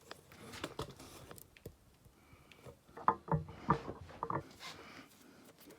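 Water sloshing and splashing as a punctured tractor inner tube is handled in a tub of soapy water, air bubbling out through the holes. A cluster of short splashes comes about three seconds in.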